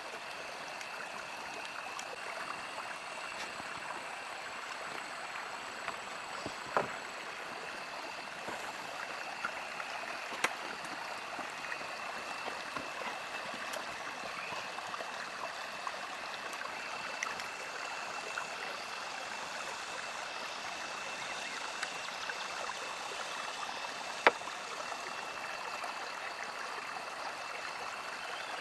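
Steady flowing-water noise like a stream, with a faint high steady tone running through it. A few isolated sharp knocks stand out, the loudest late on.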